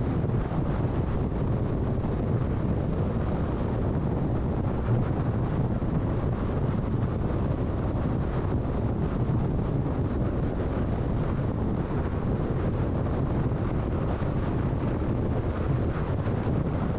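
Steady freeway driving noise from a car at cruising speed: a constant low rumble of tyres on the road and wind.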